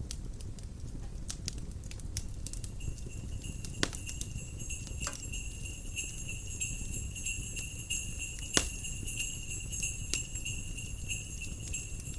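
Fire crackling with scattered sharp pops over a low rumble. From about three seconds in, jingle bells start shaking steadily.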